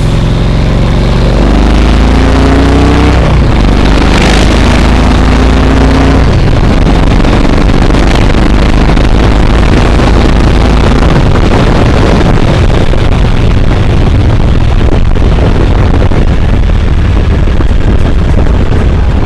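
Yamaha Road Star XV1600's air-cooled V-twin engine under way, rising in pitch twice as it pulls through the gears, then running steadily at speed.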